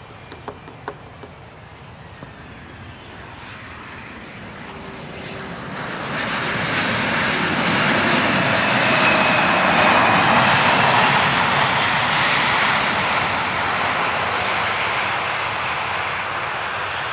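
Airliner's engines passing close by, swelling from a faint sound to a loud rush about halfway through with a high whine on top, then easing only slightly.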